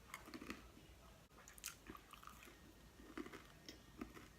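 Faint close-up chewing of barbecue chicken and bacon pizza: soft wet mouth clicks and an occasional crunch of crust.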